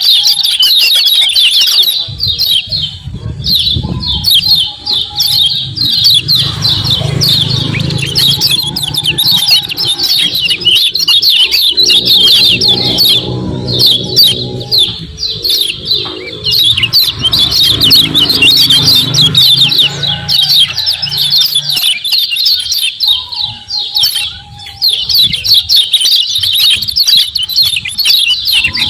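Kecial kuning, a yellow white-eye, giving fast chattering 'ciak ciak' calls: a dense run of quick, high chirps with a few short lulls. A low hum sits under much of it.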